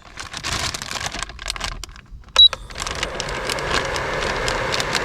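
A plastic frozen-food bag rustling and crinkling. About halfway through comes a single short, high beep from an induction cooktop's control, followed by steady sizzling of food frying in a pan.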